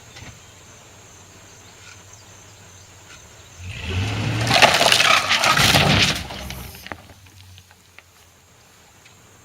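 Chevy pickup truck engine pulling hard as an old rough-cut wooden carport gives way, timber cracking and splintering as it crashes down for about three seconds, starting about three and a half seconds in.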